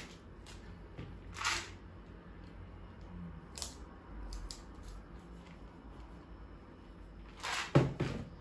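Small handling sounds of a label sheet and plastic storage containers: a few scattered clicks and rustles, with a louder knock near the end.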